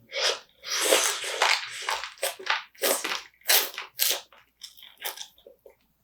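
Close-miked biting and chewing through spicy marinated raw crab in its shell: a run of irregular, crisp crunches, densest in the first two seconds.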